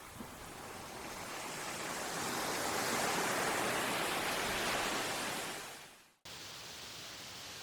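Sea surf washing in, a rushing hiss that swells for a few seconds and then fades away; after a sudden break a steadier, quieter even hiss follows.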